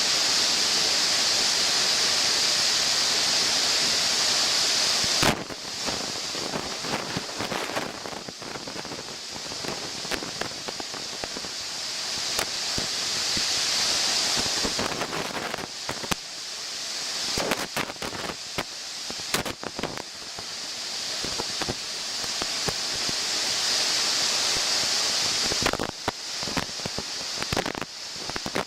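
Rushing water of a waterfall, a steady hiss for the first five seconds, then a sharp knock and an uneven rush with many sharp clicks and crackles, swelling again around the middle and near the end.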